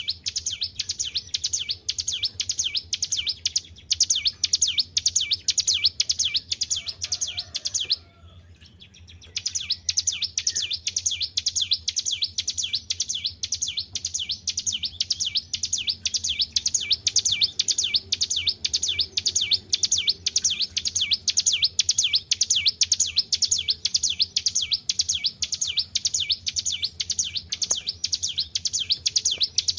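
Ciblek gunung, a prinia, singing without a break: a fast run of high, sharp repeated chirps, about three or four a second. There is a pause of about a second roughly a third of the way through, and a faint low hum underneath.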